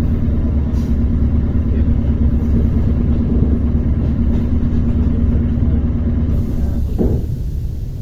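ER9T electric multiple unit running, heard from inside the carriage: a steady low rumble with a droning hum that fades out about seven seconds in.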